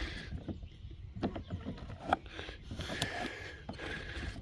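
Scattered light knocks and scraping from hand work on the underside of an upturned Black & Decker electric lawnmower, clearing clogged wet grass cuttings from the deck.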